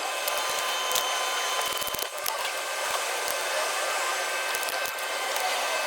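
Steady whirring hiss like a fan or blower running, with a few faint tones held under it and occasional light clicks.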